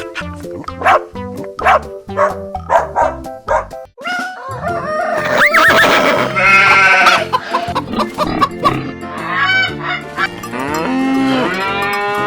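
Farm animal calls, including honking, laid over background music with a steady beat; the calls come in about halfway through.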